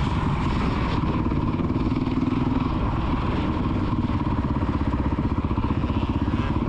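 Child's motocross dirt bike engine running at a fairly steady pitch, without big changes in revs.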